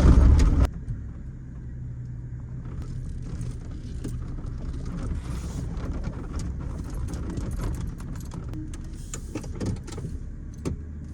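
The 2010 Ford Ranger's 4.0-litre V6 running steadily as the truck is driven, with light clicks and rattles throughout. A loud rushing noise cuts off abruptly less than a second in.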